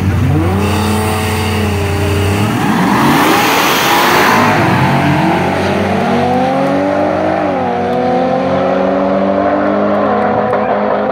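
Nissan GT-R and Ford F-150 Lightning engines revving on the line, then launching hard with a loud burst of noise about three seconds in. They accelerate away with the engine pitch climbing and dropping at gear changes about seven and a half and ten seconds in.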